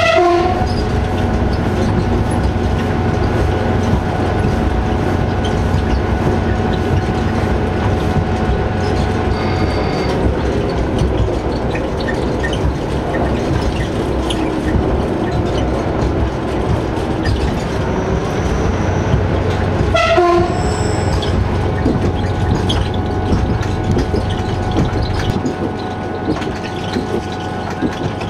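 Diesel railcar of the Nice–Digne line (Chemins de fer de Provence) running, with steady engine and wheel-on-rail noise. Its horn sounds briefly at the start and again about twenty seconds in. The low rumble eases a few seconds before the end.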